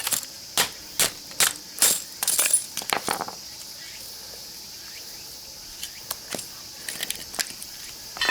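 Sharp metallic knocks on a small transformer's iron core being worked with hand tools, about two a second for the first three seconds, then a few faint clicks and one loud clink near the end. Steady insect chirring behind.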